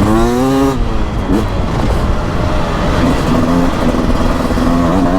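Beta RR 300 single-cylinder two-stroke enduro engine under way on dirt, revving up in rising sweeps that break off as the rider shifts or rolls off. The biggest climb is at the start and another comes near the end.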